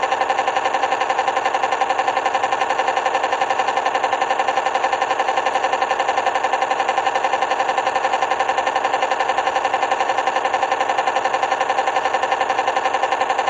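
A loud, steady buzzing tone pulsing rapidly, about eight beats a second, which cuts off abruptly near the end.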